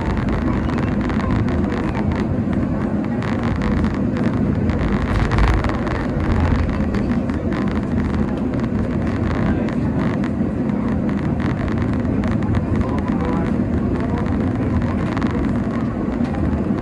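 Steady running noise of the Cairngorm funicular car climbing its track, heard from on board: a continuous low rumble with a brief surge about five seconds in.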